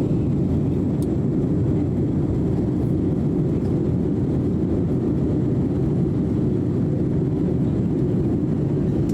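Steady low rumble of airliner cabin noise in flight: engine and airflow noise heard from inside the passenger cabin, even and unchanging.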